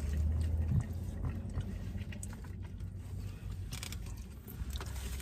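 Someone eating: chewing, with scattered light clicks and rustles of utensils and takeout packaging, over a steady low rumble inside a car.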